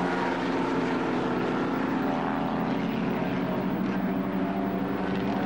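Historic racing sports car engines running at speed, a steady engine note holding its pitch.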